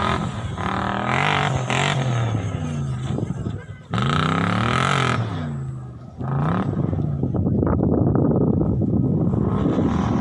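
Off-road vehicle engine revving in bursts, its pitch climbing and falling, with sharp blips about four and six seconds in, then running steadily.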